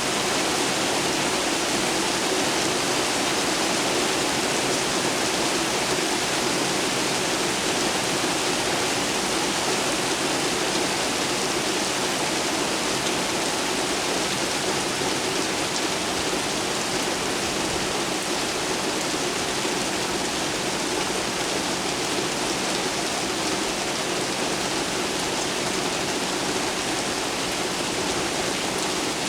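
Steady heavy rainfall, an even hiss of rain with no distinct thunderclap.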